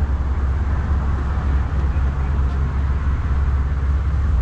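Low, steady rumble of street traffic and vehicle engines, with a hiss of background noise above it.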